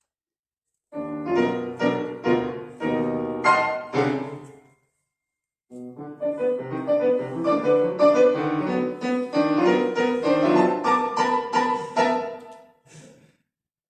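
Solo piano playing a classical-style piece: a phrase of chords and quick notes, a pause of about a second, then a longer flowing phrase ending with a single short note.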